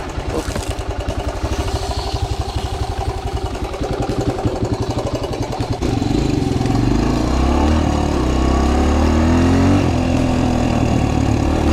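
Small single-cylinder four-stroke engine of a 2003 Suzuki DR-Z125L running at low speed with even, distinct firing pulses. About six seconds in it gets suddenly louder and the pitch rises and falls as the throttle is opened.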